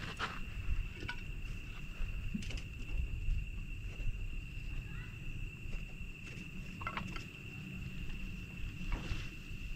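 Campfire burning, its wood crackling with scattered sharp pops at irregular intervals, over a steady high-pitched insect trill and a low rumble underneath.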